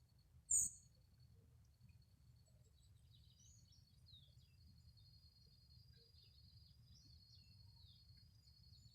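Faint bird chirps with a thin steady high tone underneath, after a single short, sharp high chirp about half a second in; otherwise near silence.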